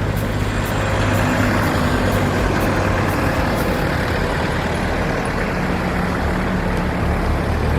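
Street traffic with a large motor vehicle's engine running close by: a steady low hum under a constant rush of road noise.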